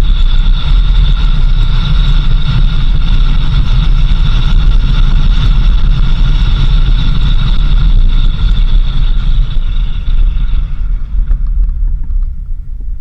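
Vehicle driving on a dirt road: a loud, continuous low rumble of engine and road noise, with a steady high whine that fades out about eleven seconds in as the sound gets quieter.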